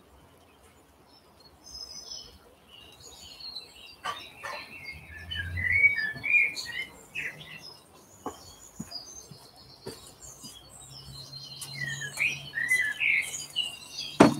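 Small birds chirping and twittering in a rapid jumble of short, high notes, busiest from about four seconds in; a sharp knock right at the end.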